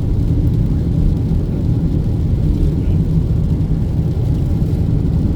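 Steady low rumble of a car driving on the highway, heard from inside the cabin: engine and road noise with no change in pace.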